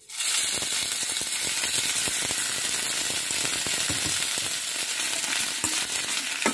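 Cut okra sizzling in hot oil in a stainless steel kadai: the frying starts suddenly as the oil is poured in and goes on as a steady hiss with crackles.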